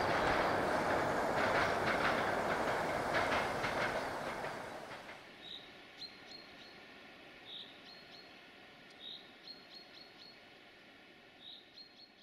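Passenger train rolling away, its wheels clicking over the rail joints. About five seconds in the train noise drops away abruptly, leaving a bird chirping in short repeated calls.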